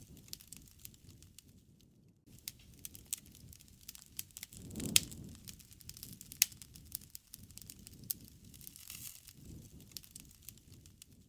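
Wood fire crackling, with irregular sharp pops over a soft low rush of flame; the loudest pop comes about five seconds in.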